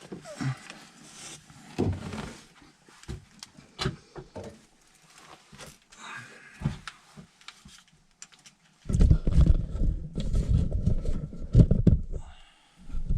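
Clicks and handling of tools and fittings, then a battery press tool running for about three and a half seconds as it crimps a press fitting onto a refrigerant line. It starts again briefly near the end.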